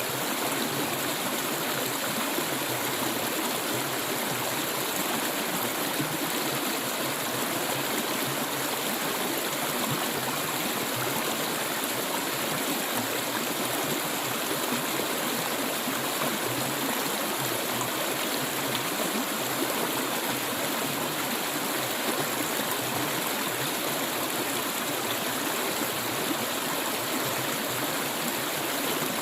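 Clear stream water flowing steadily over rocks, an even rushing babble with no breaks.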